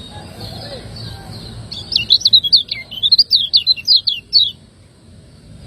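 Kecial kuning white-eye singing its fast 'ciak ngejos' chatter: about a dozen loud, sharp, rapidly sweeping chirps of roughly four a second, starting under two seconds in and ending about a second before the end, after softer high twittering.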